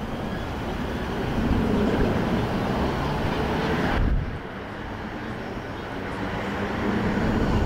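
Electric multiple-unit passenger train running slowly toward the platform, a steady rumble of wheels on rail and traction noise. The sound swells, drops abruptly about four seconds in, then builds again as the train draws nearer.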